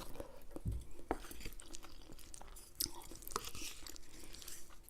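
A person chewing a mouthful of food close to the microphone: a scattering of faint, short wet clicks.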